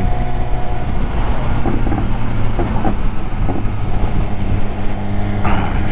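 BMW S1000R inline-four running at a steady speed through its aftermarket SC-Project exhaust, with wind rushing over the rider's helmet microphone.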